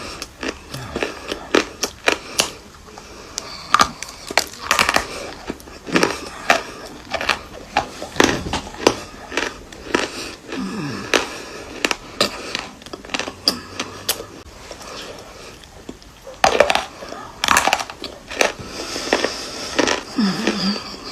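Dry chalky pieces being bitten and crunched, one sharp crunch after another at an irregular pace, sometimes several a second.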